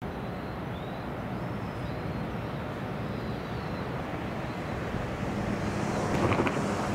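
Low rumble of an approaching train, growing slowly louder, with a few sharp clicks about six seconds in. Birds chirp faintly in the first few seconds.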